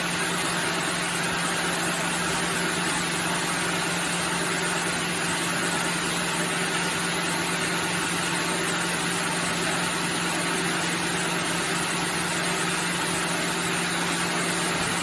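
Sawmill machinery running steadily: a constant mechanical noise with a low electric-motor hum and no cutting strokes.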